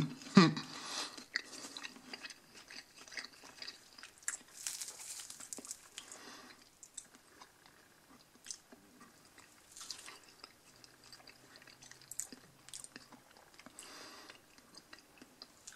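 A person chewing a mouthful of McDonald's chicken nugget: soft, irregular mouth sounds with small clicks, the breaded nugget not very crunchy.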